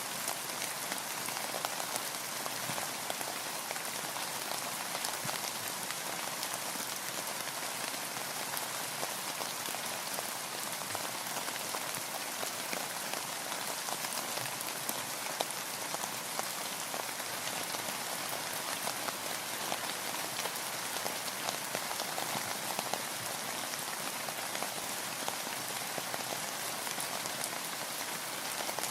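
Steady rain falling on a boat, a dense, even patter of many small drop impacts.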